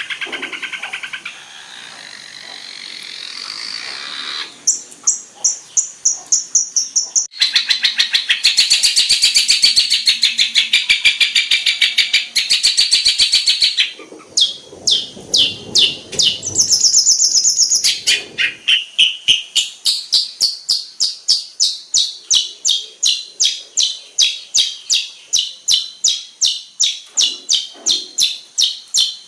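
Long-tailed shrike (cendet) singing a varied song: buzzy chattering and fast trills, then a long series of sharp, high repeated notes at about three or four a second.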